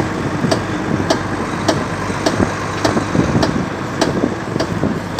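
Volvo FMX truck with a sharp, even clicking from the rear wheels, about two clicks a second, over the running engine. The rear wheel discs are intact, and the driver suspects something in the rear axle.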